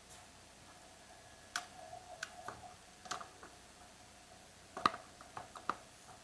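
Irregular light clicks and taps of small plastic and metal chainsaw parts being handled and fitted, with a cluster of sharper clicks about five seconds in.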